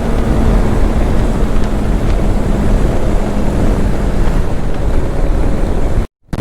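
Wind rushing over the microphone while riding, with the TVS Apache RTR 310's single-cylinder engine running at a steady speed underneath. The sound cuts out abruptly for a moment near the end.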